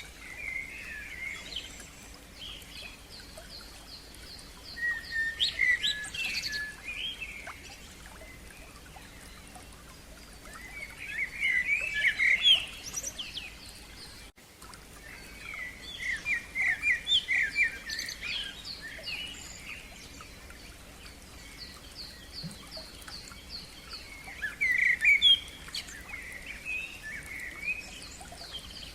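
Several songbirds singing: bursts of varied chirping phrases every few seconds, loudest about 6 and 12 seconds in, over a steady series of high repeated notes at about three a second.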